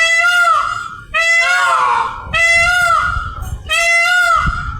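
Indian peafowl (peacock) calling loudly: four loud, nasal, arching calls in a row, about one a second.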